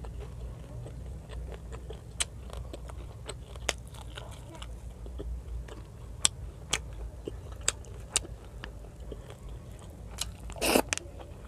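Close-miked chewing and mouth sounds of someone eating by hand, with many scattered sharp mouth clicks and a louder, longer noisy sound near the end.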